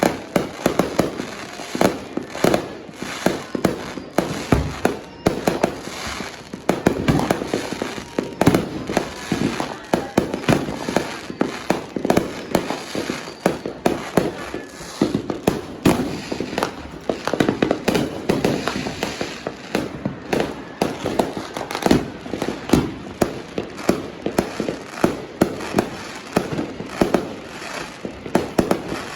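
Firecrackers and fireworks going off in a dense, continuous run of sharp bangs and pops, several a second with no break.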